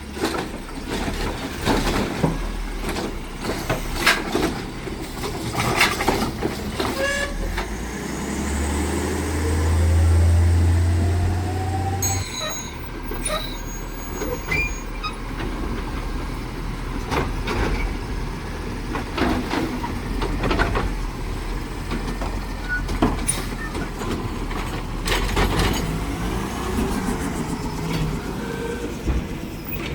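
Automated side-loader garbage truck working its route: the diesel engine runs steadily, then revs up for about four seconds starting around eight seconds in before dropping back abruptly. Many sharp knocks and clanks sound throughout.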